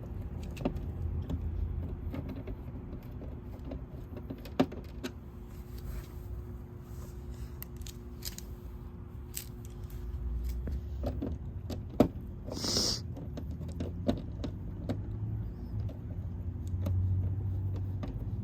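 Small metal clinks and clicks as a car licence plate and its screws are handled and fitted, over a low steady hum. A short hiss comes about thirteen seconds in.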